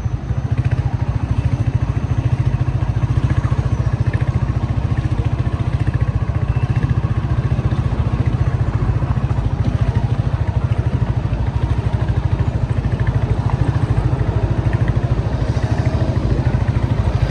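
A vehicle engine running steadily close by, with an even fast pulse and a wash of road noise over it.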